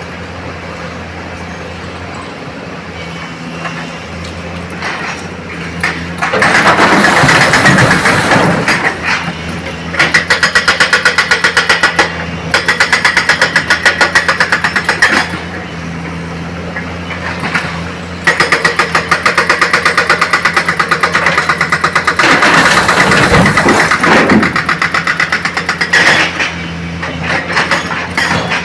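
Heavy diesel engine of quarry machinery running steadily, with several loud bouts of hard working in which the sound turns rough and pulses rapidly.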